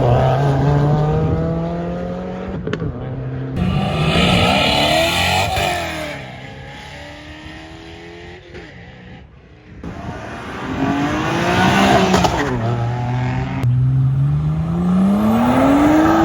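Performance car engines accelerating hard, one car after another, the engine pitch climbing under throttle and dropping back at gear changes or as a car pulls away. The clips cut abruptly from one to the next, with a quieter stretch in the middle.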